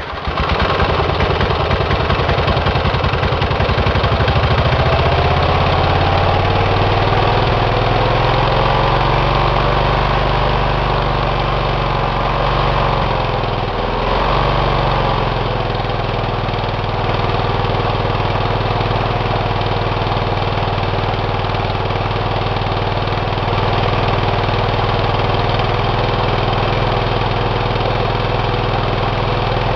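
Small engine running on one cylinder with the cylinder head removed from the other, dead cylinder, which has not been firing. Its speed rises over the first few seconds, sags briefly about halfway through, then holds steady.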